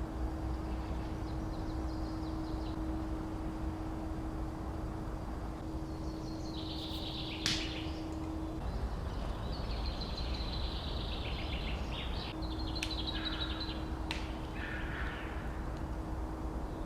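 Small birds singing in short chirping, trilling phrases, most of them in the second half, over a steady outdoor background. A low steady hum runs underneath and drops out for a few seconds midway.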